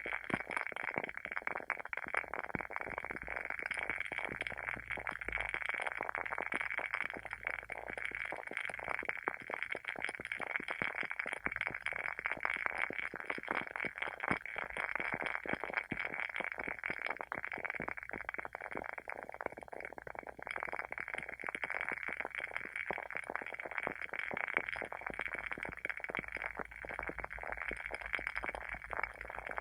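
Wooden wick of a WoodWick candle crackling steadily as it burns: a dense, unbroken run of small pops and snaps.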